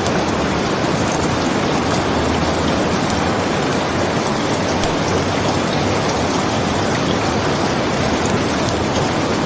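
Steady heavy rain: an even, unbroken rushing hiss with faint scattered ticks of drops.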